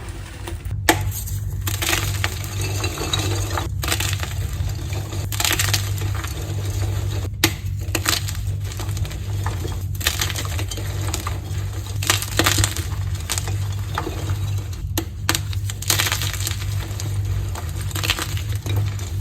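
Blocks of dyed gym chalk being crushed, crunching and crackling with many small sharp snaps and a few sudden breaks in the sound.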